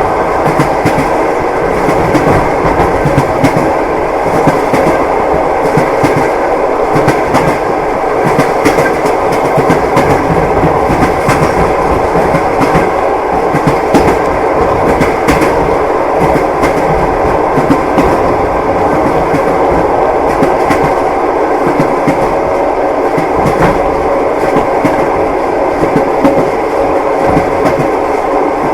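Passenger train carriage running along the track: a steady rumble with the clatter of the wheels over the rails.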